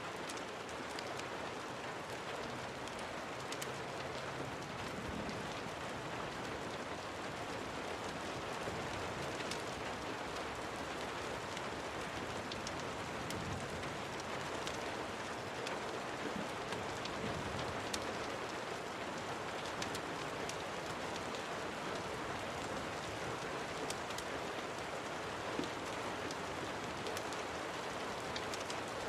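Steady rain falling: an even hiss with scattered small ticks.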